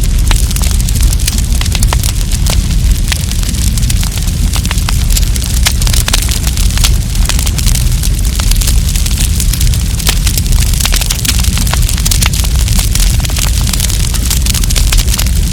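Wood campfire crackling, with frequent sharp pops and snaps over a steady low rumble of the flames.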